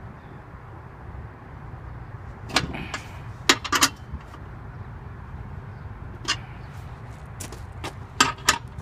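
A few sharp clicks and knocks, spaced irregularly, over a steady low rumble.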